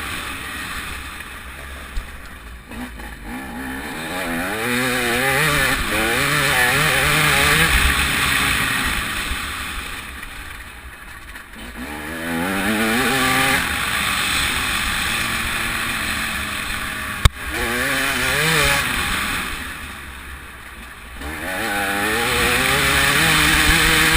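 TM 300 two-stroke motocross bike's engine revving hard and shifting up, then rolling off, three times over. A single sharp knock comes about seventeen seconds in.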